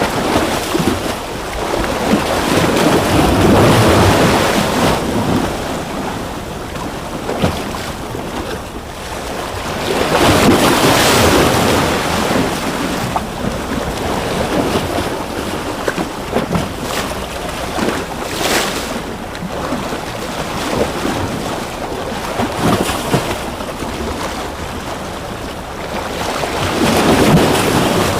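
Ocean waves washing in and breaking, a steady rush of surf that swells into louder surges every several seconds, the strongest about ten seconds in.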